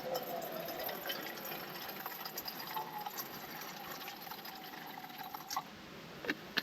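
Liquid being poured into a container, a steady tone rising slightly in pitch as it fills, cutting off about five and a half seconds in, with a few light clicks.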